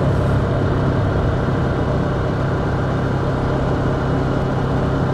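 Ducati Scrambler's L-twin engine running steadily at a constant cruising speed, with wind noise rushing over the helmet microphone.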